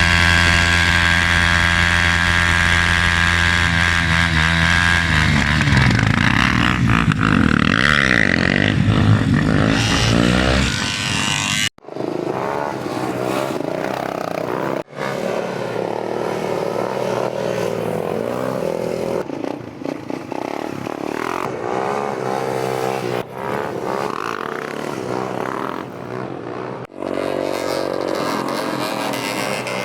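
Motorcycle engines running and revving: a steady engine note at first that starts rising and falling in pitch about seven seconds in, then more engines revving up and down across several sudden cuts.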